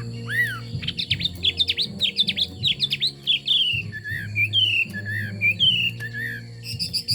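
Chinese hwamei singing: a few arched whistles, then from about a second in a rapid run of quick down-slurred notes, followed by varied warbled phrases.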